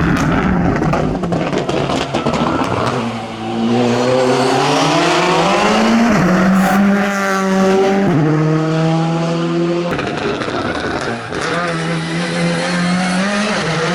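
Rally car engine revving hard at full throttle. Its pitch climbs and then drops sharply at each gear change, several times over.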